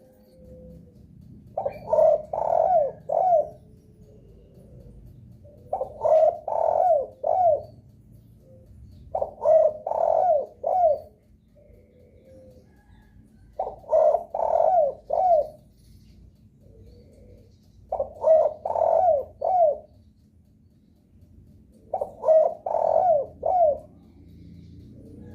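Spotted dove (derkuku) cooing: phrases of about four quick coos, repeated roughly every four seconds, with fainter single coos in between. This is a lure call meant to set other spotted doves calling.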